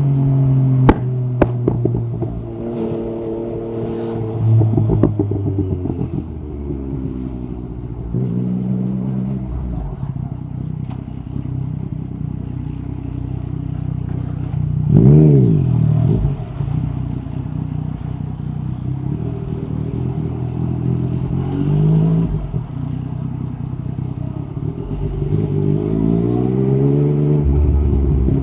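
Yamaha MT-09 SP's three-cylinder engine running through an Akrapovic carbon exhaust with the dB killer out, rising and falling in pitch as it accelerates and eases off through the gears. There are a few sharp cracks from the exhaust in the first couple of seconds, and a quick rev that peaks and drops about halfway through is the loudest moment.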